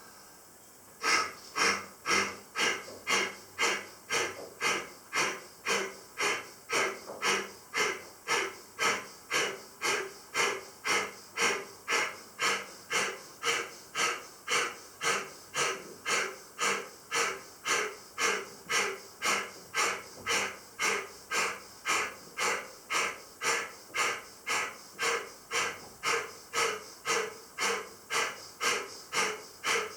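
Kapalabhati pranayama: a person forcing short, sharp exhalations out through the nose by snapping the belly in, each followed by a passive in-breath. The puffs start about a second in and repeat at a steady rhythm of a little under two a second.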